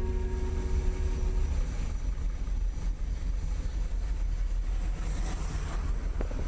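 Low, steady rumbling noise with a faint hiss over it. A held music note fades out during the first second and a half.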